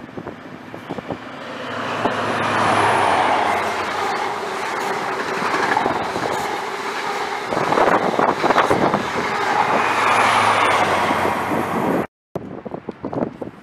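InterCity 125 High Speed Train passing at speed: the Class 43 power car's diesel engine drone builds as it approaches, then the Mark 3 coaches rumble and clatter over the rail joints. The sound cuts off abruptly near the end.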